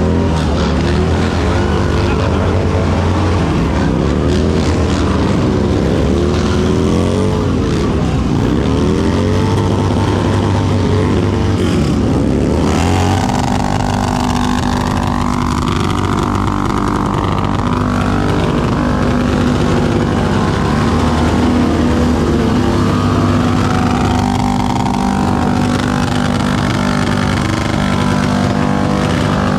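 Motorcycle engines in a slow race, the revs rising and falling again and again as the riders work the throttle. About halfway through they settle into a steadier, even running note.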